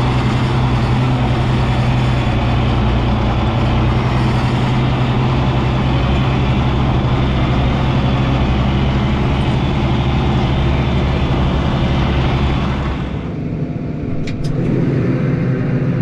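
Tractor engine running steadily with a strong low hum. About thirteen seconds in the sound drops and changes, with a couple of short clicks.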